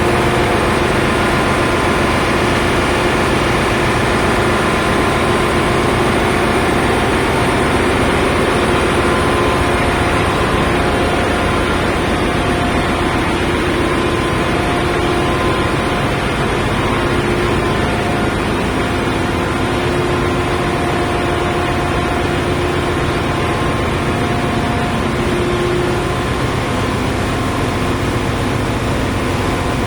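Ship's engine room machinery running: a loud, steady mechanical din with several constant tones through it.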